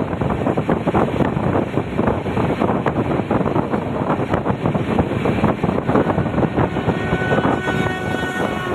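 Moving Indian Railways express train: steady running noise with irregular wheel-on-rail clatter and wind buffeting. About six seconds in, a steady pitched tone joins in and holds to the end.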